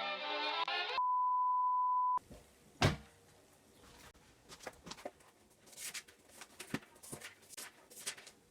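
Music cuts off about a second in, followed by a steady, high electronic beep lasting just over a second. Then a single loud thunk, and after it scattered soft clicks and taps.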